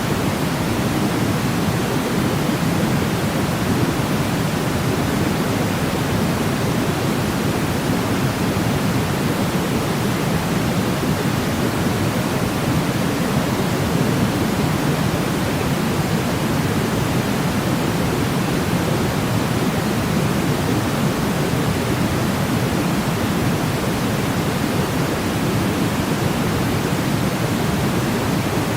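Steady noise, an even hiss that does not change, weighted toward the low end like pink noise: a continuous white-noise track for sleep.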